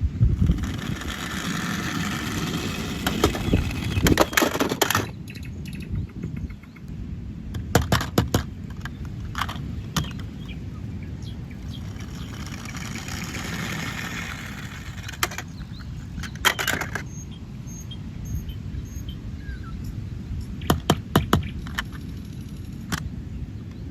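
Plastic toy vehicles being handled and rolled: a rushing rolling sound in two long stretches, with scattered sharp plastic clacks and knocks.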